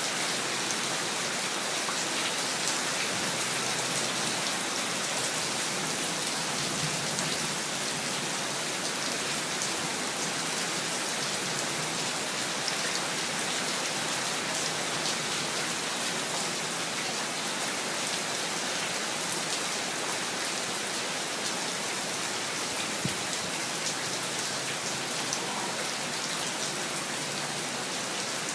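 Steady rain falling, a dense even hiss with many fine drop patters on surfaces and one slightly sharper tap late on.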